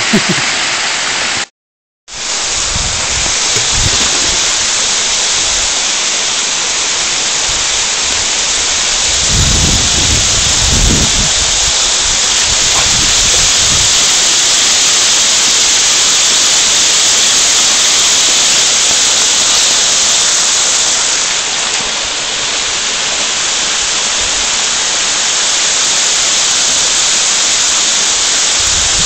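Waterfall rushing: a steady, loud wash of falling water. The sound drops out to silence for about half a second near the start, and there are a few low thuds about ten seconds in.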